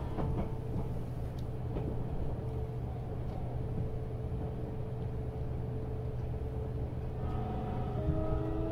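Running sound inside a JR Shikoku 8000 series electric train: a steady low rumble with a steady hum. Near the end a whine joins in that slowly rises in pitch.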